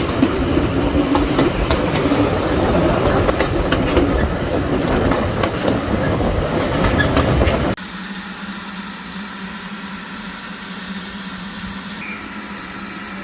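A train running on rails: loud rolling noise with clicks of the wheels over rail joints, and a high wheel squeal for a few seconds in the middle. Near the end it cuts abruptly to a quieter steady hum.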